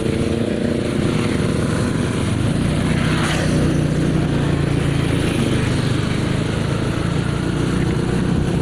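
Motorcycle engine running steadily while riding, with wind noise over the microphone; a brief rushing hiss rises about three seconds in.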